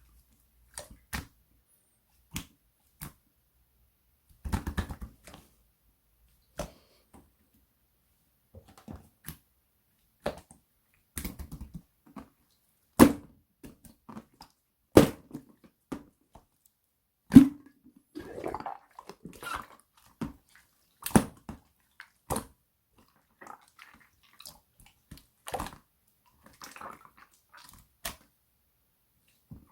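Irregular taps and clicks from small objects being handled, a few of them sharper and louder, with short stretches of soft rustling in between.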